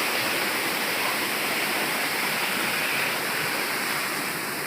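Waterfall: a steady rush of falling water, close by.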